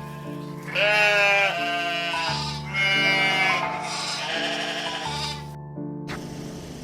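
A bleating farm animal calls several times over steady background music.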